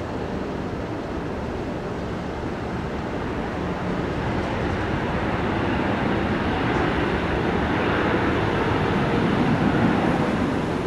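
Jet aircraft engine noise at the airport, a steady rumble that grows louder about halfway through and swells near the end.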